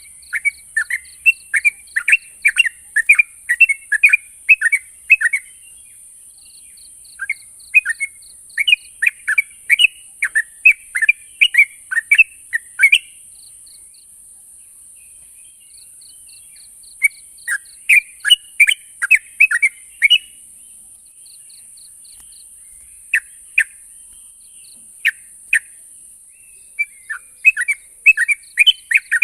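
Yellow-vented bulbul (trucukan) song: phrases of quick, bubbling chattering notes lasting a few seconds each, broken by short pauses, over a steady high hiss.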